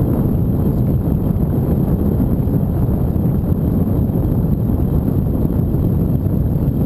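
Steady, loud low rumble of wind on the microphone while riding a bike.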